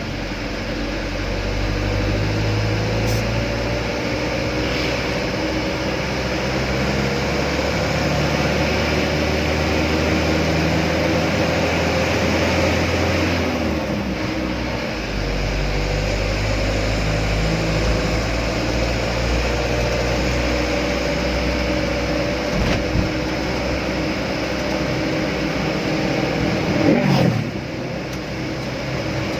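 Truck engine running steadily on the road, its note changing briefly about halfway through. Near the end there is a short louder sweep that falls and then rises in pitch.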